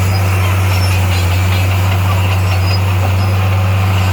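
Heavy machine engine running steadily at a constant low pitch, with no revving.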